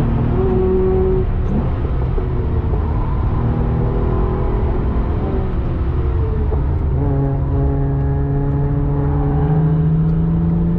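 Porsche 996 Carrera 3.6's flat-six engine under load, heard from inside the cabin with road and tyre rumble. Its pitch climbs slowly, drops around six to seven seconds in, then climbs steadily again.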